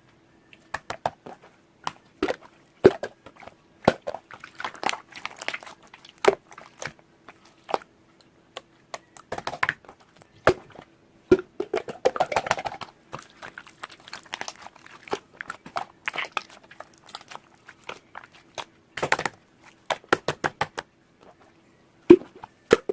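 Close-miked ASMR sounds: irregular sharp clicks, crackles and crinkling, bunched more densely about halfway through, over a faint steady hum.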